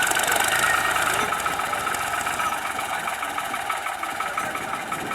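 New Holland TT55 tractor's diesel engine running steadily, growing gradually quieter.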